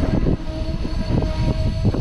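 A train running past, with a rapid run of wheel knocks over a steady hum.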